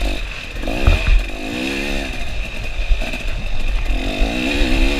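KTM 300 two-stroke dirt bike engine revving up and down again and again as the throttle is worked, with low thumps, the loudest about a second in.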